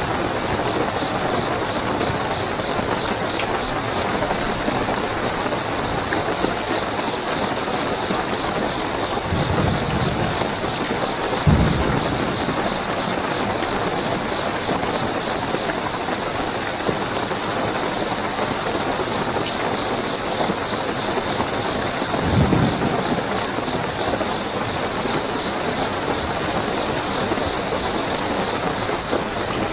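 Steady heavy rainfall with crickets chirping in a continuous high trill. Short low rumbles come through three times, the loudest a sharp one about a third of the way in.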